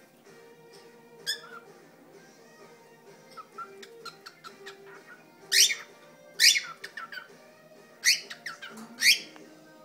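Pet cockatiel whistling and chirping: short, sharp calls that sweep down in pitch, one about a second in and four loud ones in the second half, with softer chatter between.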